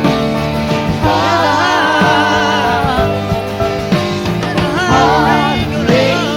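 Live band music with singing: long, held vocal notes with wide vibrato, about a second in and again in the second half, over a steady sustained chord from the band.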